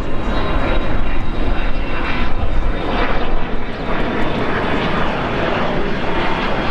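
Jet engines of a Boeing 777-200LR departing at takeoff thrust: loud, steady engine noise with a ragged crackle.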